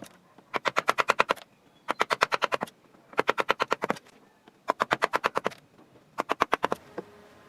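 Rapid tapping on wood: five bursts of about ten sharp strikes each, roughly a dozen a second, repeated about every second and a half.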